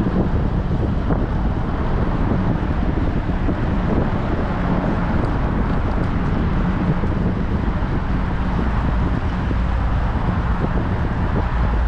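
Wind rushing over a GoPro's microphone on a moving bicycle: a steady low rumble.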